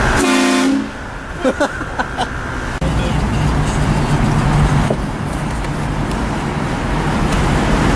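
A brief train-horn blast from a horn mounted on a truck, about half a second long and cut off abruptly near the start. Then steady vehicle engine and traffic rumble.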